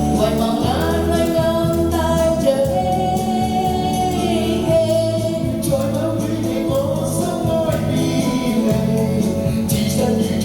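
A pop song: sung vocals over an instrumental backing track.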